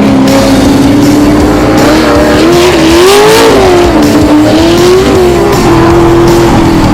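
Racing muscle car's V8 engine on track, its pitch rising and falling several times with the throttle.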